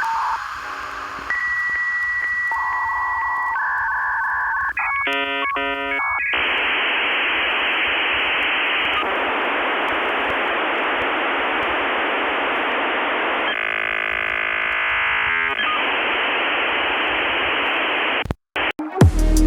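Dial-up modem connecting over a phone line, heard thin as through a telephone. Steady tones and quick dialing beeps come first, then chattering handshake tones, then long stretches of hiss. It cuts off suddenly near the end.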